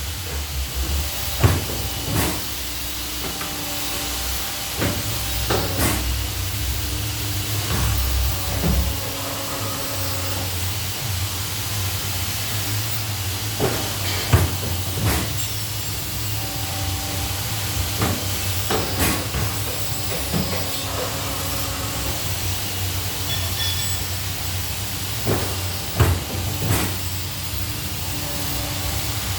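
CNC pipe-bending machine running: a steady hiss over a low hum, broken every few seconds by sharp clicks and clunks.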